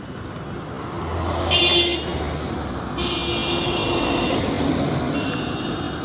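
Road traffic passing, with vehicle horns sounding: a short honk about a second and a half in, then a longer honk lasting over a second.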